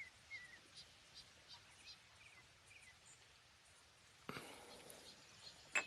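Near silence: faint outdoor ambience with a few soft, brief chirps, like small birds or insects, and a soft rustle of noise near the end.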